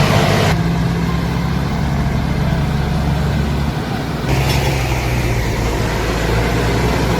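Tractor engine running steadily with a low, even drone, changing abruptly about half a second in and again about four seconds in.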